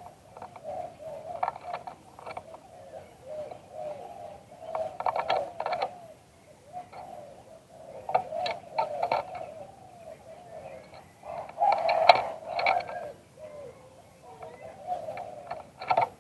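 Zebra dove (Thai singing dove) cooing in repeated phrases. Each phrase is a quick run of short, clipped coos, with a louder burst every three to four seconds and softer coos in between.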